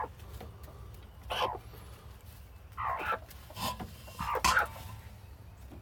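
Broody bantam hens sitting on eggs in a shared nest box, making about five short raspy sounds a second or so apart.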